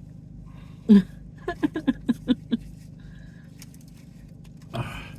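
A person laughing: one loud voiced outburst, then a quick run of about seven short 'ha' pulses, over a steady low hum. A brief breathy rustle comes near the end.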